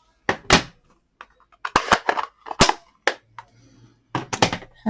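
Stamping supplies handled on the bench: a run of sharp plastic clicks and knocks, about nine in irregular clusters, as ink pads and clear stamp blocks are opened, tapped and set down.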